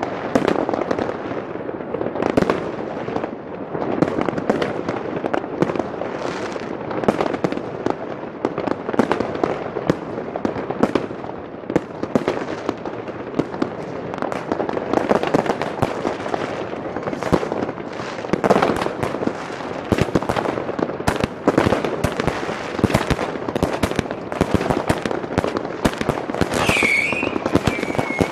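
Many fireworks and firecrackers going off at once: a continuous, dense rattle of bangs and crackles with no let-up, and a falling whistle near the end.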